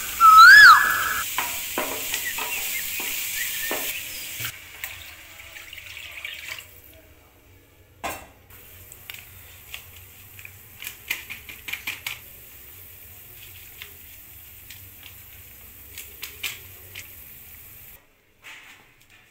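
Chopped onions and garlic sizzling in a nonstick frying pan, stirred and scraped with a wooden spatula. A loud short whistle that slides up and then holds comes about half a second in. After a cut the sizzling is gone, leaving scattered clicks and soft scraping from stirring the watery soup.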